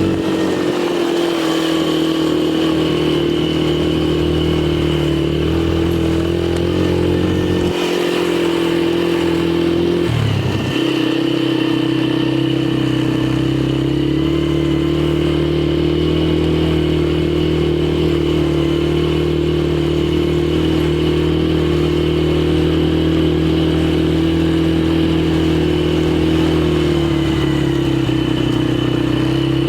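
A 1990 Polaris quad's engine running loudly at steady, fairly high revs, dropping sharply and picking back up about ten seconds in, with a smaller sag near the end.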